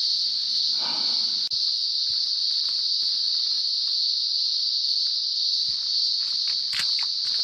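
Cicadas calling in a dense summer chorus: one loud, unbroken, high-pitched buzz. A few faint knocks can be heard under it.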